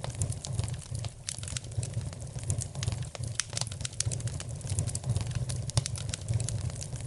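Wood fire crackling in a fireplace: a steady low rumble with frequent sharp pops and snaps.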